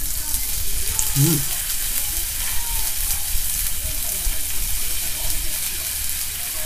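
Eggplant slices and sausages frying on an electric hot plate: a steady sizzling hiss. A short voice sound comes about a second in.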